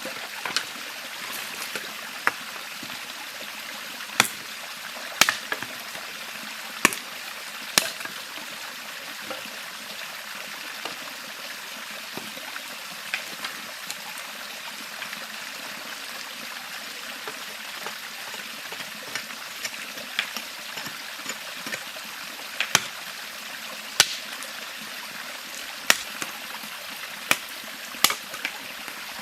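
Steady rushing of a river stream, with sharp short clicks or knocks at irregular moments, several clustered about four to eight seconds in and again near the end.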